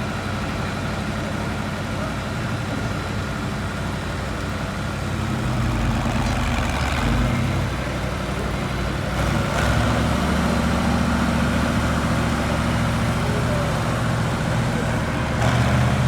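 International Harvester 1468 tractor's V8 diesel engine running hard under load, its deep note getting louder about five seconds in and again near ten seconds.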